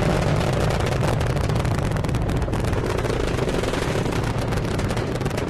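Rocket engine roar during a launch: a steady, crackling rumble that slowly fades.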